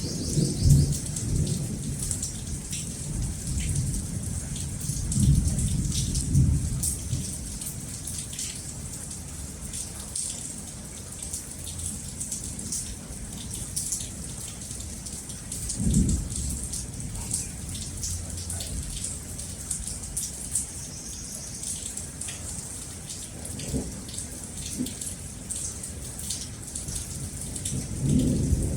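Steady rain falling, with many small drop ticks, while thunder rumbles low in the background and swells several times: about a second in, around five to seven seconds, about sixteen seconds in, and near the end.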